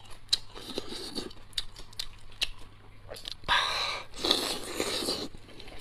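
A person chewing braised pork ribs close to the microphone. Many small wet smacking clicks come first, then two longer noisy stretches of mouth noise past the middle.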